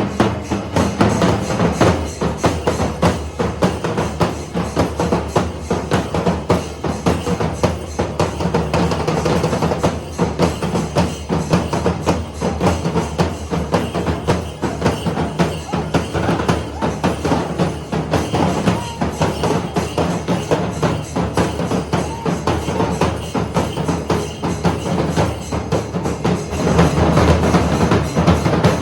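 Traditional Kerala temple-festival percussion ensemble drumming loudly and continuously in a dense rhythm, swelling a little near the end.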